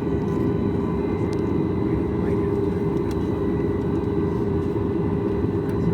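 Steady engine and airflow noise inside the passenger cabin of a Boeing 737 MAX 8 jetliner, an even drone with a constant hum that does not change.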